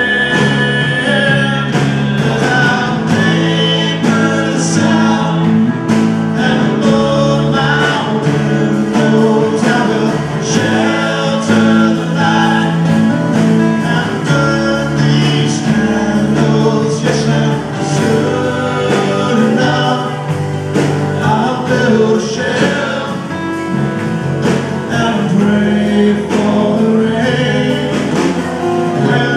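Live band music with singing, continuous and loud.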